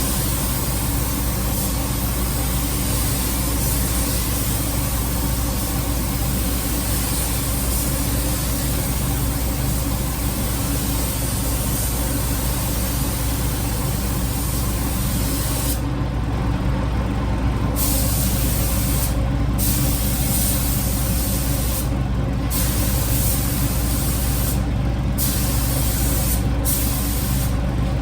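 Compressed-air paint spray gun hissing steadily as a coat of paint is sprayed, over a steady low hum. In the second half the hiss stops briefly about six times, as the trigger is let go between passes.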